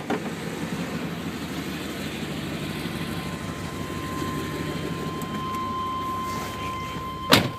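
1995 Chevy Tahoe's 5.7-litre TBI V8 running steadily through a Thrush muffler exhaust. A faint steady high tone joins about halfway through, and a sharp knock comes near the end.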